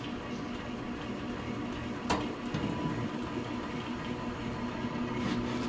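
Electric honey extractor (spinner) running at low speed with honey frames spinning inside, a steady whirring hum that grows slightly louder toward the end as the speed is turned up. One sharp click about two seconds in.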